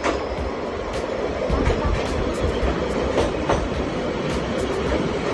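A local commuter train pulling into the station and rolling past close by: a steady rumble of wheels on rail with scattered sharp clicks from the wheels over the track.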